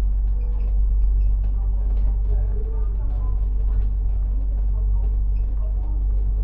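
Citybus double-decker running on the road, heard from inside the cabin: a steady, heavy low engine and road rumble with faint voices over it.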